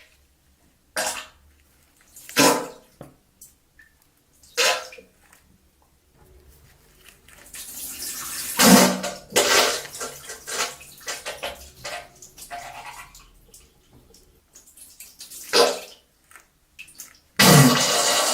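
Diarrhea sound effect: separate wet spurts and splatters into toilet water, with a longer sputtering run in the middle. A steady rush of water starts near the end.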